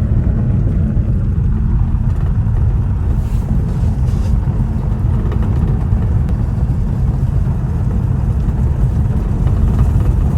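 Steady rumble of a car driving on a gravel road, heard from inside the cabin: tyre and road noise.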